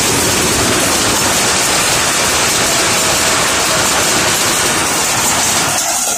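Passenger coaches of a passing train rolling by close at hand: a loud, steady rushing noise of wheels on the rails that drops away suddenly near the end.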